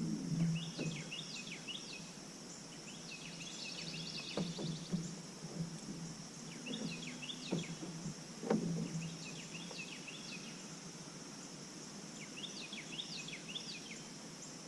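Bird song, short phrases of quick falling chirps repeated about every three seconds, over a steady high-pitched insect drone. A couple of soft knocks come about four and eight seconds in.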